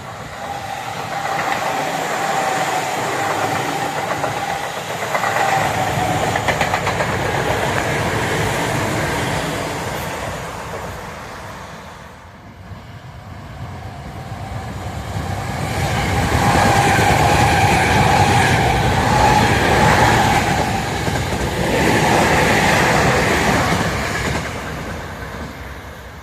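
Tobu Tojo Line electric trains passing, wheels clattering over the rail joints with a steady motor whine. The sound swells and fades twice, with a lull about halfway through.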